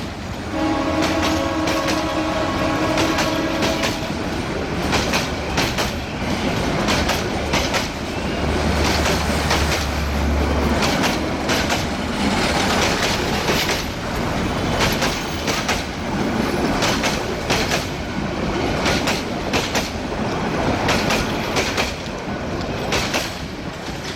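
A diesel train's horn sounds for the first few seconds, then a passenger train passes at speed, its wheels clattering over the rail joints in a long, rapid run of clicks.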